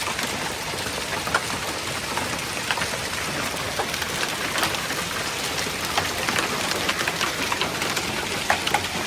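Quarter-sized hailstones pelting down in a steady hiss, with a constant scatter of sharp, separate cracks as stones strike hard surfaces, including a truck.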